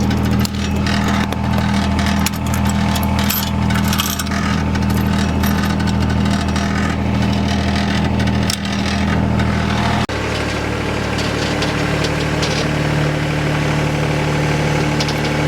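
Farm tractor engine running steadily, with rattles and knocks over the first part. About ten seconds in the engine note changes abruptly to a steadier, slightly different pitch.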